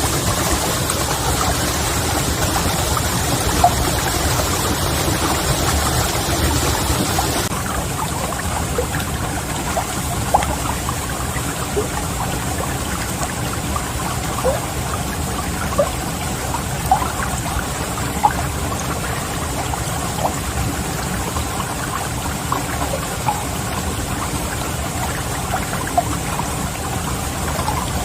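Heavy rain falling steadily, with scattered individual drops ticking and plinking through the downpour. The high hiss thins abruptly about a quarter of the way in.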